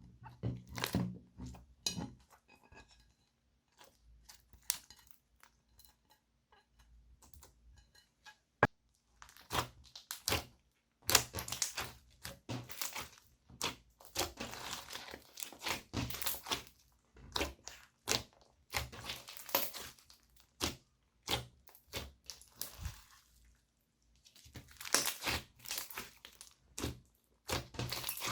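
Slime being squished and mixed by hand, giving sticky clicks, pops and crackles. They are sparse for the first several seconds, with one sharp click, then come in dense crackling runs.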